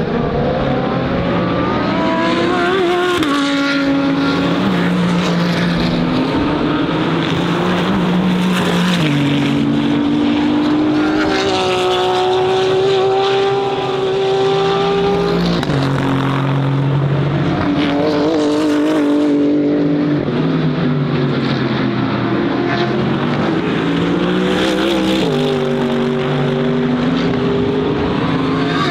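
GT3 race car engines accelerating hard through the gears, the pitch climbing and dropping back at each upshift, with several cars passing close by.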